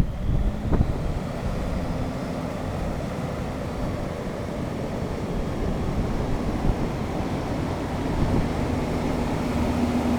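1989 International 8300 truck's diesel engine running steadily, with wind noise on the microphone.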